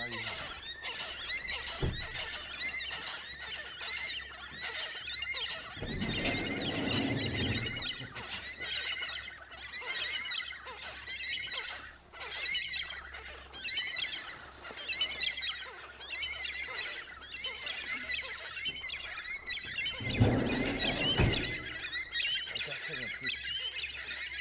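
Many small birds chirping and calling at once, a dense chorus of quick high notes. Two low rumbles break in, one about six seconds in and another near the end.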